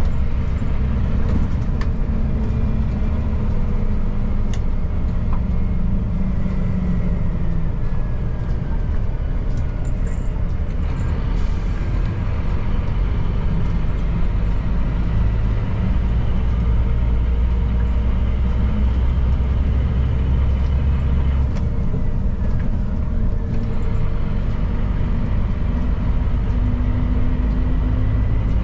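Scania P310 truck on the move, its diesel engine running steadily under a heavy low rumble of engine and road noise; the engine note shifts a few times as the truck changes speed.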